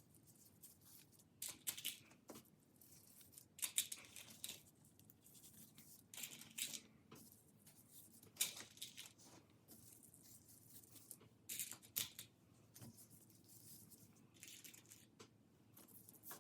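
Faint, irregular rustling and scratching of a pipe cleaner and plastic beads being handled, with short scrapes every second or two as a bead is pushed onto the fuzzy wire.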